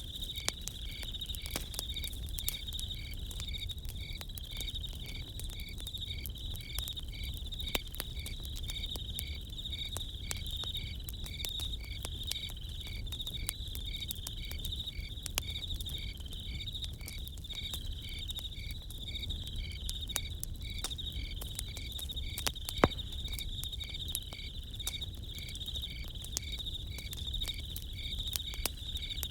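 Crickets trilling steadily, with a second chirp pulsing regularly about twice a second, over the scattered crackle and pops of a campfire; one louder pop about three quarters of the way through.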